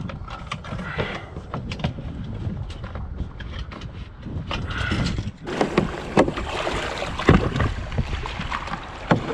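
A kayak working through ocean surf: water washing and splashing around the hull, with scattered knocks against the hull. The wash grows louder about five seconds in.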